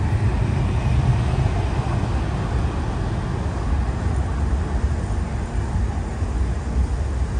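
Heritage wooden-bodied passenger carriages rolling slowly past at platform level: a steady low rumble of the wheels on the rails.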